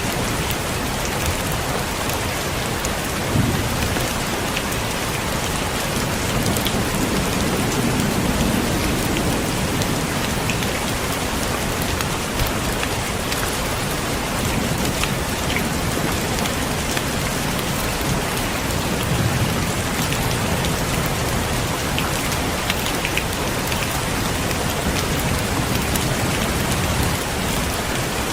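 Heavy rain falling steadily, a constant hiss with scattered sharp drop ticks. Low rumbles of thunder swell and fade a few times underneath.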